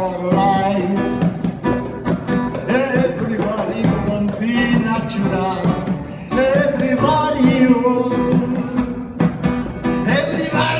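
Acoustic guitar playing with a voice singing long, held notes over it.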